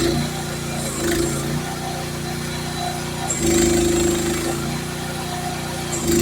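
Youtop YT15 mini excavator's engine running steadily while the hydraulics work during digging. It rises in level and strain briefly about a second in, for about a second from a little past halfway, and again near the end, as the hydraulics take load.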